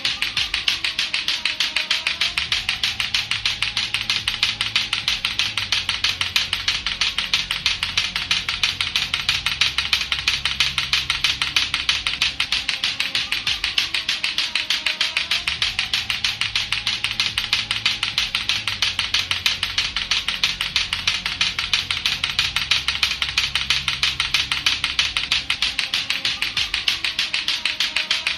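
Latto-latto clacker toy: two hard plastic balls on a string knocking together in a fast, even, unbroken run of sharp clacks, several a second.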